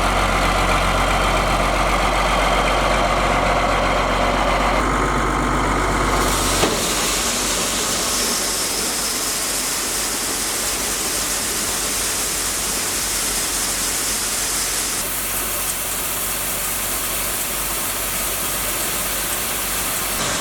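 An engine running steadily, with a low hum; about six and a half seconds in the sound changes abruptly to a noisier running sound.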